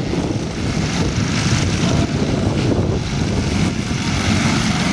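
Propeller engine of a large-scale radio-controlled model warbird in flight, running steadily.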